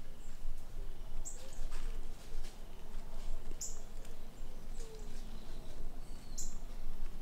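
Small birds giving short, high chip notes every couple of seconds, over a steady low rumble and faint rustling.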